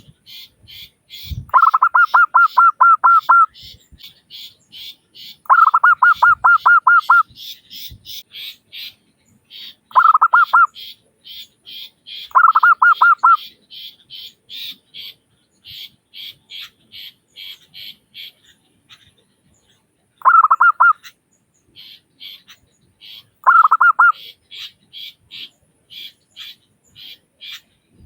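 Zebra dove (perkutut) cooing in six short phrases of rapid, clipped notes, each phrase lasting about half a second to two seconds. A softer, higher-pitched chirping pulses steadily behind them, about three to four times a second.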